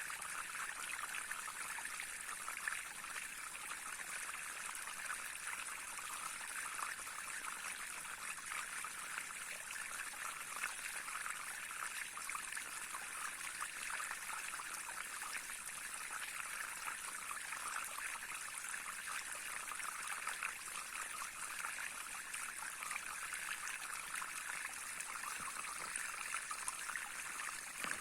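A small stream babbling and trickling over stones, a steady flickering rush of water with no change in level.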